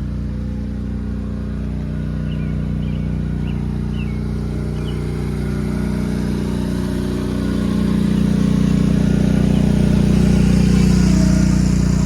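An engine running steadily, growing louder about seven or eight seconds in.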